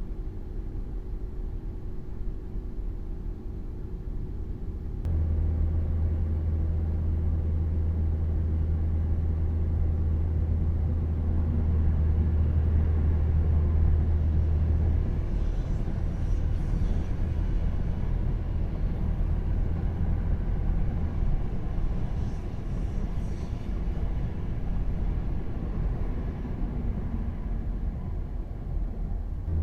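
Low, steady vehicle rumble that jumps abruptly louder about five seconds in and then carries on steadily.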